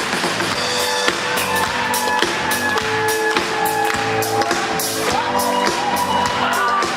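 Live rock band playing an instrumental passage: drum kit with frequent cymbal strikes under long held melodic notes that step from one pitch to the next.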